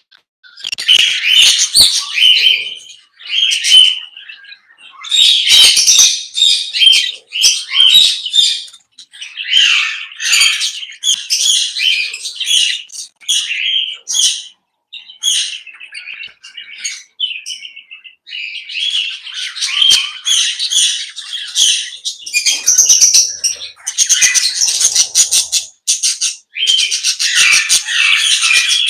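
A group of aviary parrots chirping and squawking in quick overlapping calls, with rapid chattering runs near the end.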